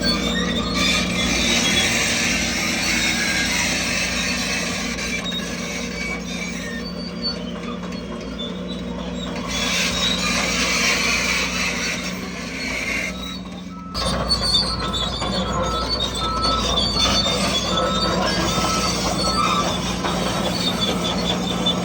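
Crawler bulldozer at work: its diesel engine runs steadily under a high-pitched metallic squeal from the tracks. The sound breaks off abruptly and resumes about two-thirds of the way through.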